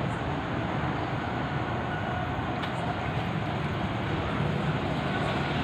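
Steady low rumbling background noise, like passing vehicle traffic, with no distinct events.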